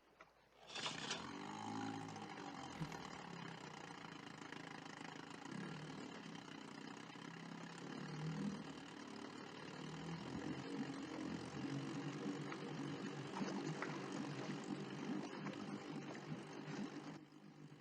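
Small boat's outboard motor starts with a sudden burst about a second in, then runs steadily. The level drops off near the end.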